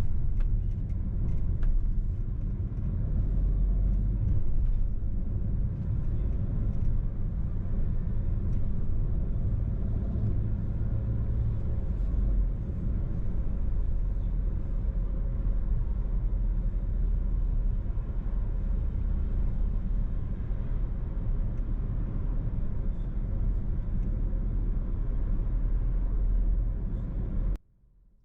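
A car driving, a steady low rumble of engine and road noise that cuts off suddenly near the end.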